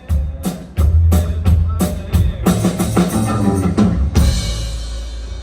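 Drum kit played in a run of bass drum and snare hits, building into a fill that ends with a cymbal crash about four seconds in, left to ring and fade.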